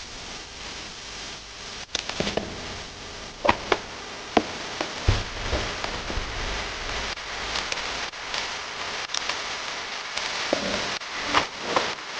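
Irregular clicks and crinkling handling noises over a steady hiss, with a cluster of sharper clicks a few seconds in and more near the end.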